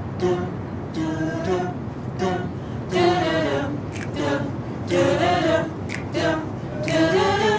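Unaccompanied singing: a voice singing short, wordless phrases with brief gaps between them, a cappella.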